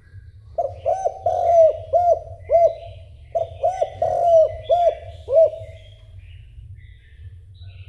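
Spotted dove cooing in two quick runs of short, repeated notes, the first starting about half a second in and the second about three seconds in, stopping near five and a half seconds. Other small birds chirp faintly over a steady low hum.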